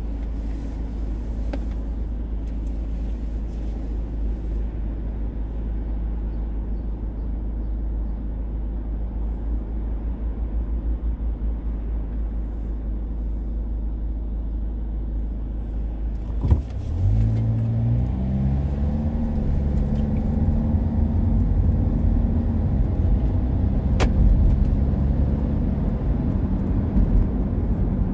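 Road vehicle heard from inside the cab through a dashcam: a steady low rumble. About two-thirds of the way through comes a sharp click, after which the engine note rises as the vehicle accelerates and then settles into a steady drone.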